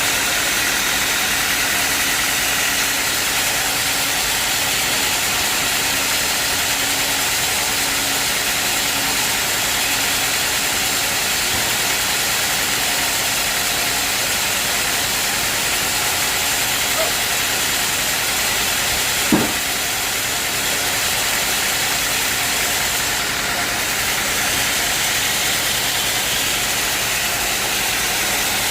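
Sawmill machinery running steadily with a constant engine-like noise, and one short sharp knock about two-thirds of the way through.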